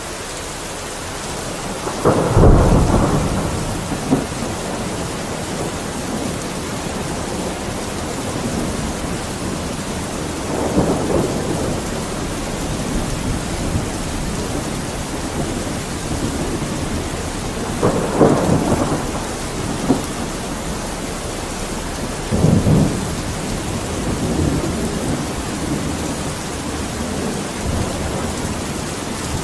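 Steady heavy rain, with thunder rumbling four times, the first rumble about two seconds in being the loudest.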